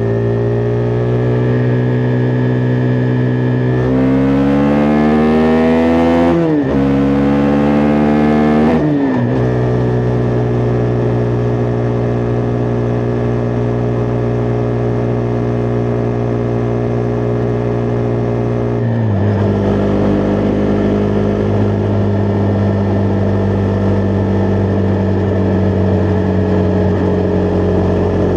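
Husqvarna Vitpilen 401's single-cylinder engine on the move. About four seconds in the revs climb, drop with a quick upshift, climb again and settle to a steady cruise after another shift. Well past the middle the revs fall to a lower, steady note as the rider eases off.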